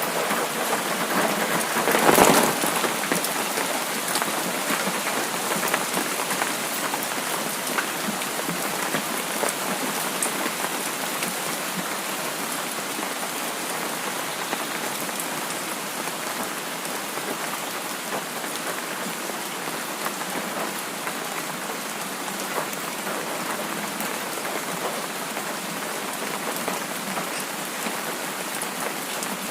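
Steady rain falling and pattering, with a brief louder rush about two seconds in.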